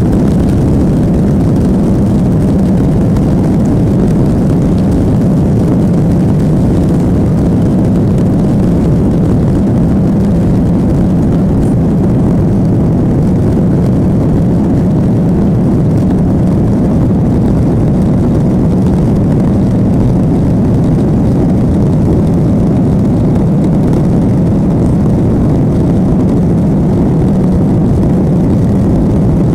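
Airliner cabin noise: a loud, steady low drone of engines and airflow heard from inside the passenger cabin, unchanging throughout.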